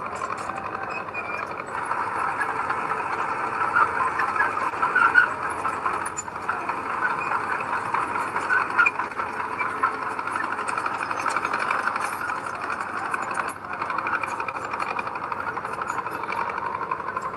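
Heavy diesel earthmoving machinery running steadily, with a few louder surges about four to nine seconds in.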